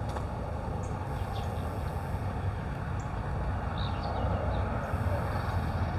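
Steady outdoor background rumble and hiss, with a few faint, short, high chirps.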